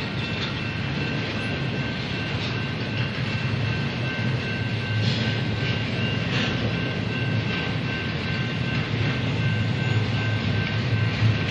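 Freight train's double-stack container cars rolling past: a steady rumble of steel wheels on rail, with a thin high whine running through it.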